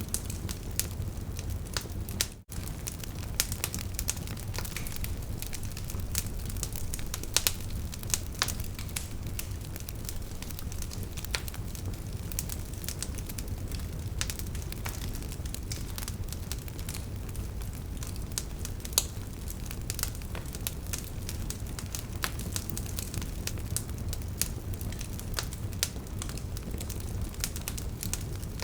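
Burning wood fire crackling, with a steady low rumble of flames under frequent sharp snaps and pops from the logs. The sound drops out for an instant about two and a half seconds in.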